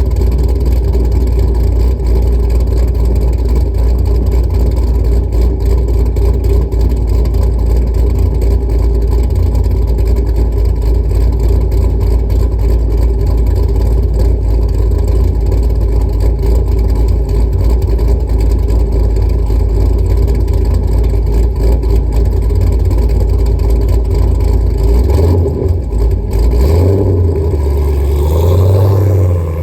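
Stage 4 modified Chevrolet Camaro SS V8 idling loud and choppy while cold. Near the end the idle shifts and the revs rise briefly.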